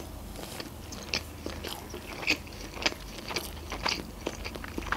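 Close-miked chewing of a mouthful of sushi roll, with irregular short crunches and mouth clicks about twice a second.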